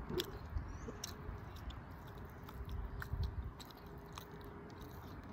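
A person chewing cooked salmon with soft, wet mouth sounds and small scattered clicks.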